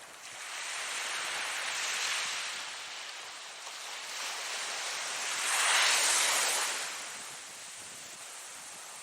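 Ocean waves breaking and washing in: the surge builds twice and is loudest about six seconds in, then recedes.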